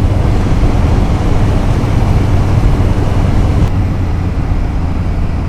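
Motorcycle engine running steadily at road speed under heavy wind rush on the rider's helmet-mounted microphone. The wind hiss eases about three and a half seconds in.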